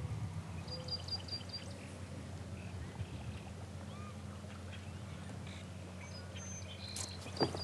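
Birds calling over the water, with a quick run of short high chirps about a second in and more near the end, above a steady low hum. A short sharp sound comes near the end.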